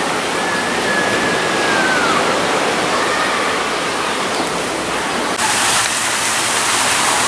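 Ocean surf washing in a steady rush; the hiss brightens about five seconds in.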